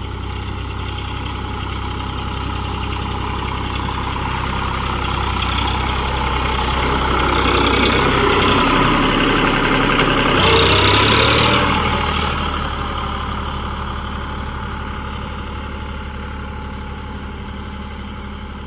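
Sonalika DI 734 tractor's diesel engine running. It swells louder toward the middle and fades again, and its low drone shifts about two-thirds of the way through.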